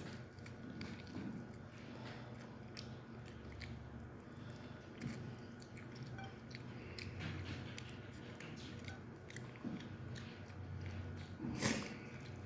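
A person chewing and biting into chicken close to the microphone: a run of small wet clicks and smacks, with one louder bite near the end.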